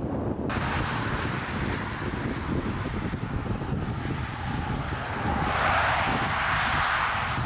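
Strong wind buffeting the microphone with a heavy low rumble. A rushing hiss starts about half a second in and swells louder for a couple of seconds around the middle-to-end before dropping away.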